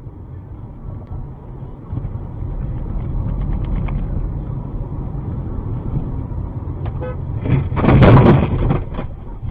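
A car's engine and road noise heard while driving, getting louder over the first couple of seconds, then a loud harsh burst of noise about eight seconds in.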